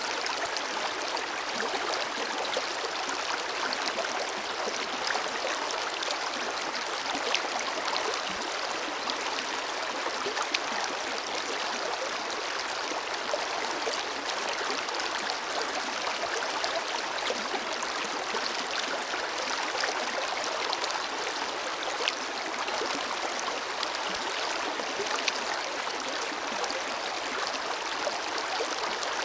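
River water flowing steadily over stones, an even rushing with small splashes and gurgles scattered through it.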